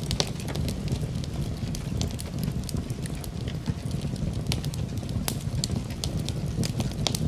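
Wood fire burning in a fireplace: a steady low rumble of the flames with frequent irregular sharp crackles and pops from the burning wood.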